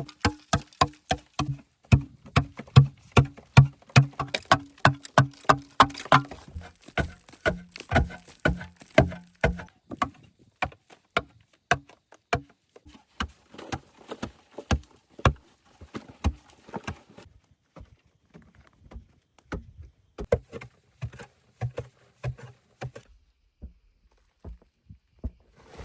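A rapid series of sharp knocks or strikes, about three to four a second, with a low steady hum beneath them for the first few seconds. The strikes grow sparser and quieter after about ten seconds and stop a couple of seconds before the end.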